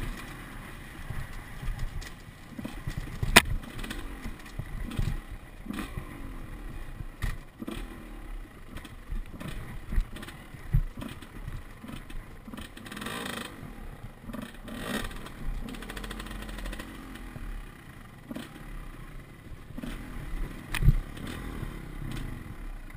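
Enduro dirt bike engine revving up and down over and over on a trail, with scattered knocks and clatter; a sharp knock about three seconds in and another near the end.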